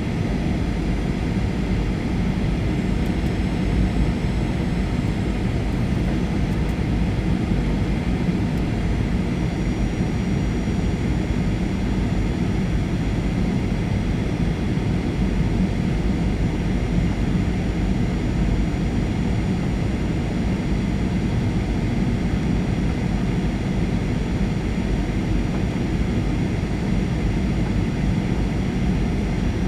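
Steady cabin noise of a Boeing 737-800 in flight on its landing approach: the rush of airflow and the drone of its CFM56 jet engines, with a faint thin whine in it. A slightly higher whine comes in about ten seconds in.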